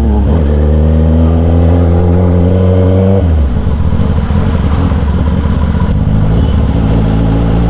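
Kawasaki ZX-10R inline-four superbike running through an SC Project exhaust. Its pitch drops at a gear change at the start, then climbs slowly under throttle. About three seconds in the throttle shuts and the exhaust falls to a rough, uneven off-throttle burble, and near the end it picks up again with rising pitch.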